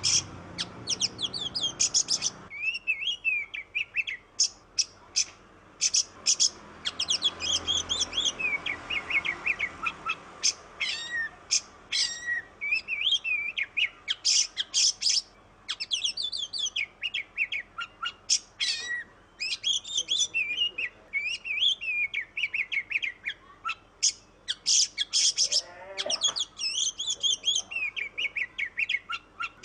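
Oriental magpie-robin singing without pause: a fast, varied run of whistled phrases, wavering notes and sharp chips, broken by short gaps.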